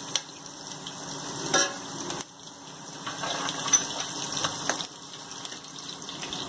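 Mustard seeds sizzling in hot ghee in a pan with fried urad dal and chillies, a steady sizzle broken by a few sharp crackles as the seeds pop: the tempering stage, when the fat is hot enough to make the seeds splutter.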